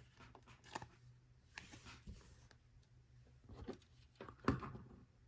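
A few faint clicks and rustles of small plastic LEGO pieces and a sticker sheet being handled as stickers are pressed on, the sharpest click about four and a half seconds in.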